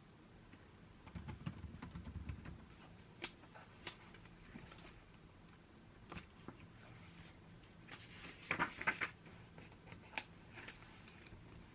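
Soft handling noises in a quiet room: scattered light clicks and taps, a muffled low bump about a second in, and a brief scratchy rustle about two-thirds of the way through, like paper or a book being handled.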